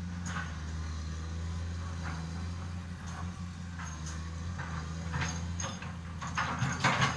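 Excavator diesel engine running steadily while dredging, with scattered knocks and a burst of loud clattering about six seconds in.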